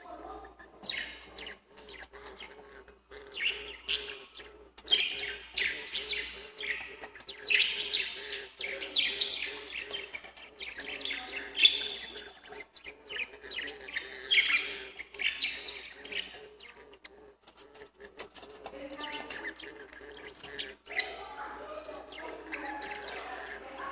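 Lovebirds chirping and chattering in rapid, irregular high-pitched bursts, busiest in the middle, with a faint low repeating pulse underneath.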